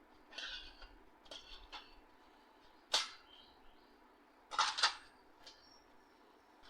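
Hands handling and fitting printer parts back together, plastic and metal knocking: light scraping and rattling early on, a sharp click about three seconds in, and a quick pair of clicks near five seconds.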